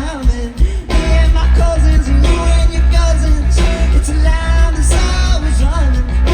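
Live rock band playing loudly, with heavy bass and drums under melodic lines that bend up and down in pitch.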